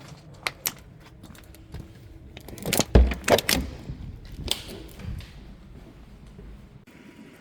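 Sharp clicks and knocks of hard objects being handled, with a burst of heavier clattering and a dull thump about three seconds in.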